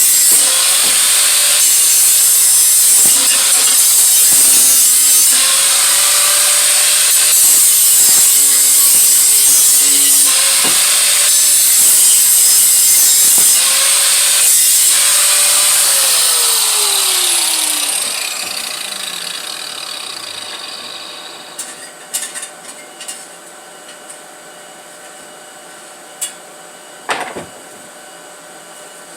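An electric power tool grinding steel exhaust head pipe, run in repeated passes with its motor note rising each time it picks up. About two-thirds of the way through it stops and spins down with a falling whine. A few light knocks follow.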